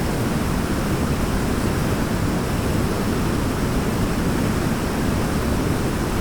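Forest waterfall: a steady, unchanging rush of falling water, heaviest in the low end.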